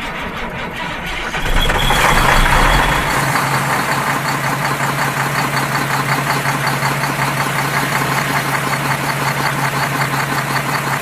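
A vehicle engine starting up, louder and rougher for the first few seconds, then settling into a steady, fast idle chug.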